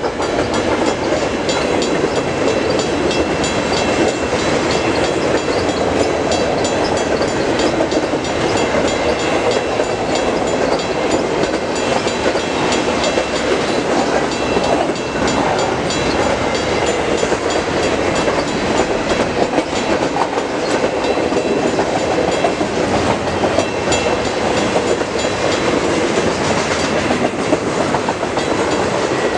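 CN intermodal freight train's cars rolling past at track side: a steady, loud rumble of steel wheels on rail with a rapid clickety-clack of wheels over rail joints.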